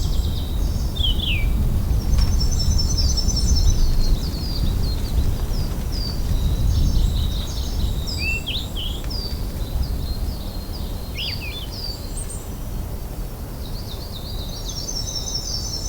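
Several small birds calling: high thin chirps, downward-sliding notes and quick trills, with trills around two to four seconds in and again near the end. A steady low rumble runs underneath.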